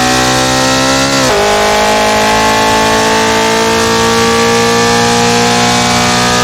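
Car engine pulling hard under acceleration, with a quick upshift about a second in that drops the revs, then climbing steadily through the next gear over a steady hiss of wet-road and wind noise.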